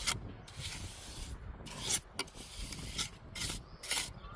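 Steel mason's tool scraping over fresh mortar and brick in a series of short, irregular strokes as the joints are cut in and tooled.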